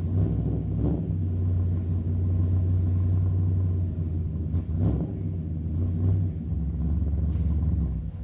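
Engine and exhaust of a 1955 Chevy Bel Air running steadily with a deep, low rumble through Flowmaster Hush Power II mufflers, briefly swelling about a second in and again around five seconds.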